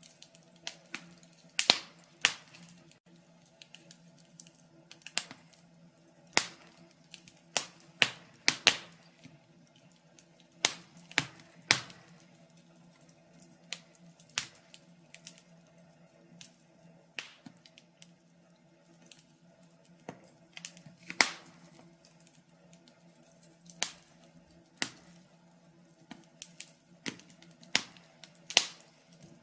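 Wood fire crackling in a fireplace: irregular sharp pops and snaps, some loud, a few seconds apart or in quick clusters, over a faint low steady hum.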